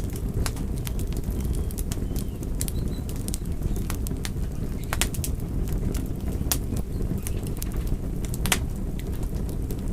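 Wood fire crackling: irregular sharp pops and snaps, a few louder ones in the second half, over a steady low rumble of burning.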